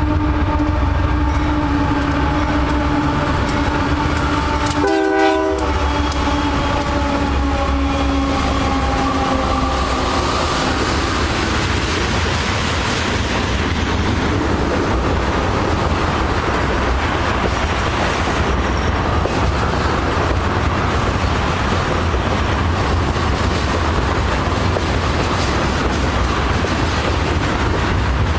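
A passing train's locomotive air horn sounding a chord, briefly broken about five seconds in, its pitch dropping as it passes; then the train rolling by with a steady rumble of wheels on rail.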